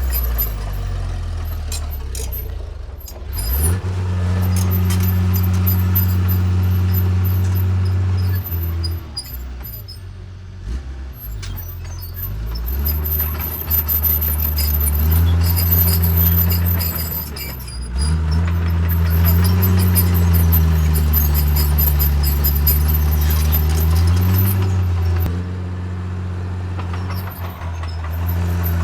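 Diesel engine of a Caterpillar D3C crawler bulldozer working, its revs rising and falling as it takes and sheds load while pushing soil, easing off several times. A thin high whine runs over much of it.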